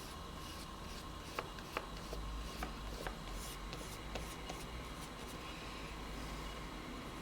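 Scratching and rubbing strokes of a drawing or painting tool on sketchbook paper, with a few light clicks and taps in the first half.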